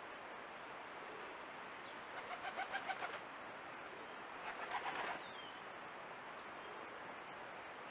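Two short bursts of a bird calling in rapid, evenly repeated notes, about two seconds apart, over the steady hiss of a trail camera's microphone; a few faint high chirps follow.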